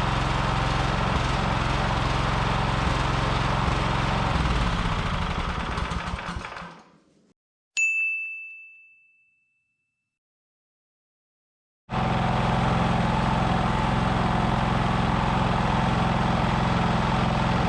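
420cc single-cylinder small engine running steadily, then shut off and winding down to a stop about five to seven seconds in. After a moment of silence a single bright ding rings out and fades, and about twelve seconds in the engine sound returns abruptly, already running.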